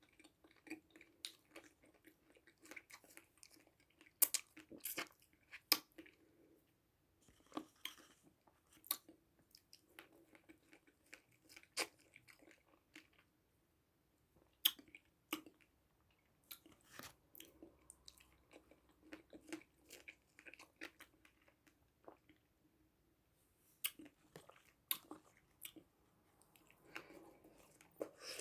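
A person biting and chewing food close to the microphone, with irregular sharp crunches.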